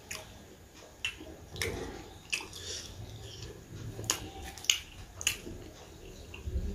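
A person chewing food close to the microphone, with sharp, irregular mouth smacks and clicks about once a second.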